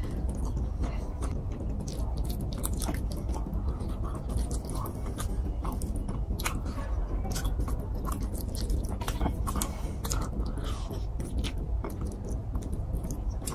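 Close-miked chewing of rice and rohu fish curry eaten by hand, with many short wet clicks and smacks, over a steady low rumble.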